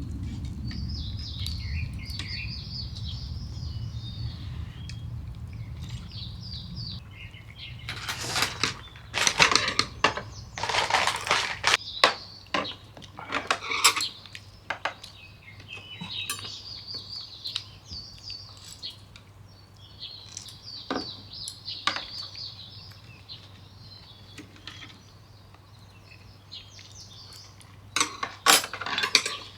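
Dishes and cutlery clattering in bursts, with birds chirping in between.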